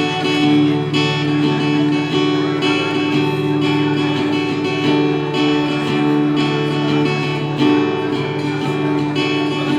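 Acoustic guitar strumming chords in a steady, even rhythm, with no singing.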